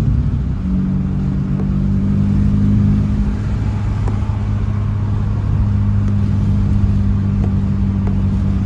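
Honda Civic Type R (FL5) 2.0-litre turbocharged four-cylinder running through an AWE Track exhaust while driving. The engine note drops in pitch right at the start, then holds a steady drone.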